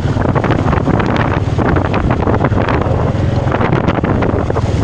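Loud wind buffeting the microphone, with a steady low rumble underneath.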